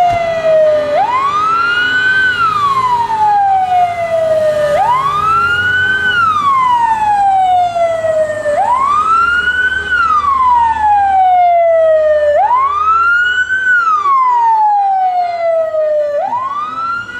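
Emergency vehicle siren on a wail: each cycle climbs quickly in pitch, then falls away slowly, repeating about every four seconds through four full cycles, with a fifth beginning near the end.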